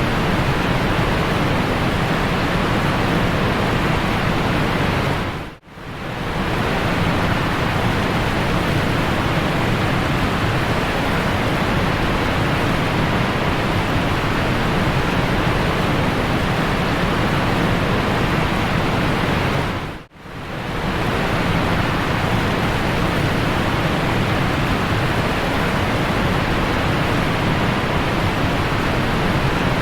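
Steady rushing noise of a waterfall. It dips briefly to near silence and fades back in twice, about six and twenty seconds in.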